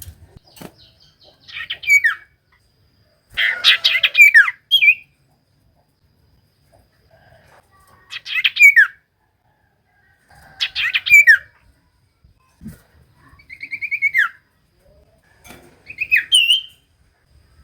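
Common iora (cipoh) singing: short loud phrases every two to four seconds, each a fast chattering trill that often ends in a sharp falling whistle.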